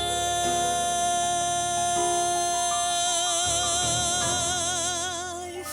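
Male J-pop vocalist holding one long sung note, steady at first, with vibrato setting in about three seconds in, over soft backing music.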